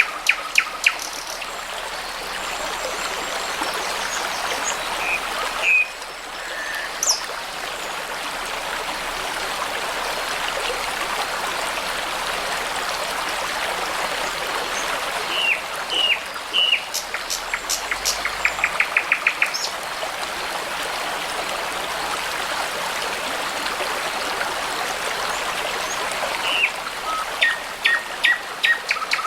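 Babbling brook running steadily, with songbirds singing short whistled and chirped phrases over it. A rapid string of repeated notes comes about two-thirds of the way in.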